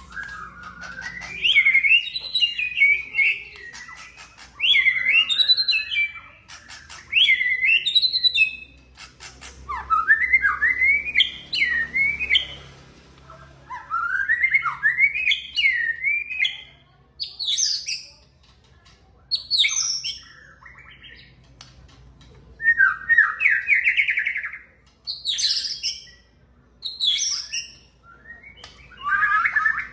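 White-rumped shama (murai batu) singing a string of varied whistled phrases, each a second or two long and many sweeping upward, separated by short pauses.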